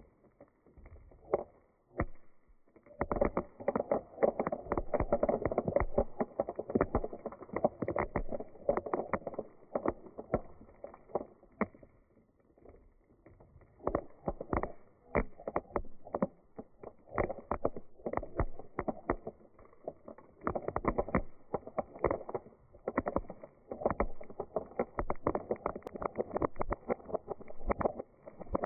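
Dried beans rattling against each other and their container: a dense, irregular clicking that swells and thins out in waves, with a sparser stretch near the middle.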